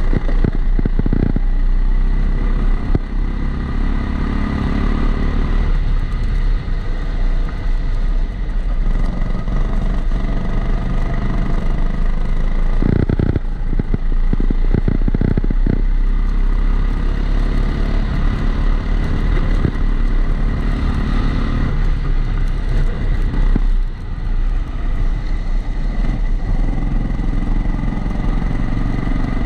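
Kombikart Eco kart's engine heard from on board the kart, its pitch rising and falling as it accelerates out of corners and eases off into them. The sound is muffled by the GoPro's housing, with a steady high tone underneath.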